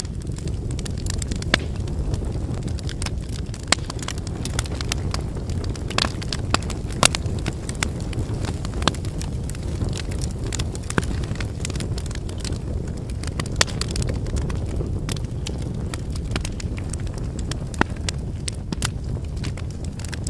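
Wood campfire burning: a steady low rumble of flames with frequent sharp, irregular crackles and pops from the burning logs.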